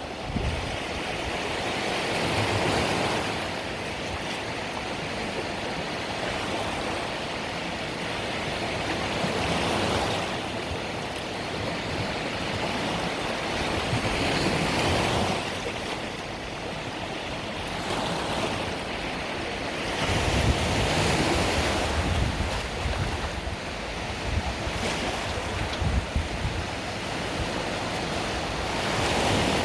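Mediterranean sea waves breaking and washing on a beach. The surf rises and falls in swells every four to six seconds.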